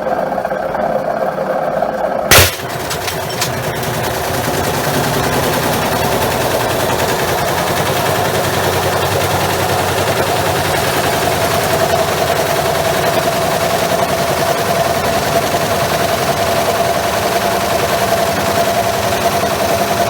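Washing machine running with a brick loose in its drum. About two seconds in comes one very loud sharp crash of the glass breaking, then a fast, continuous rattling and banging over a steady motor whine.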